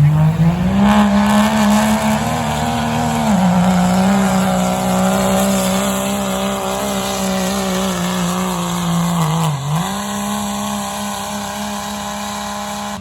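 Pulling tractor's engine running hard at high revs under the load of the sled, a loud steady drone. It climbs at the start, sags slightly about three seconds in, then dips sharply about nine and a half seconds in and recovers.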